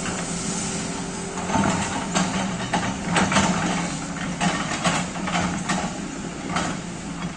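Backhoe excavator's engine running steadily, with a series of irregular knocks and scrapes starting about a second and a half in.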